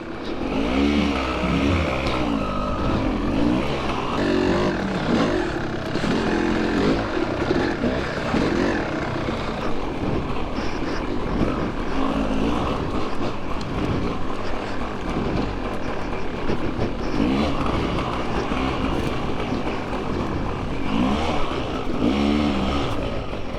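Two-stroke dirt bike engine being ridden hard, its pitch rising and falling again and again as the throttle is opened and closed, with wind rumbling on the microphone.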